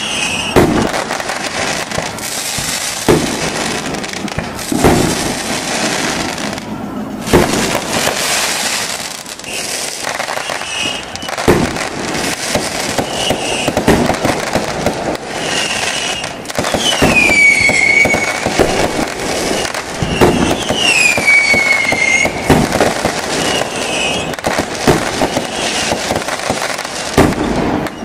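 Fireworks display: a dense run of bangs and crackling from aerial shells and firecrackers. Two falling whistles sound about two thirds of the way through.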